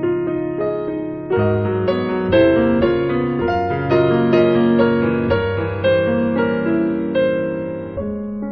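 Background piano music, with notes and chords changing about once a second.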